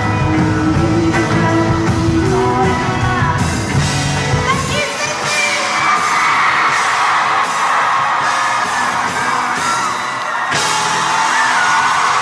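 Loud live pop music with singing, heard in a large hall. About five seconds in, the band's bass drops out and the audience cheers and screams.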